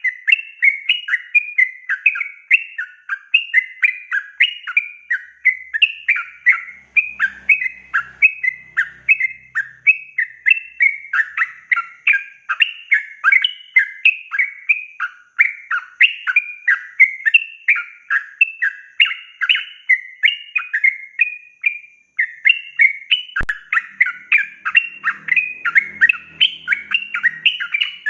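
Yellow-vented bulbul (trucukan) singing a long, unbroken, rapid run of chattering notes, the 'ropel' song. There is one sharp click about two-thirds of the way through.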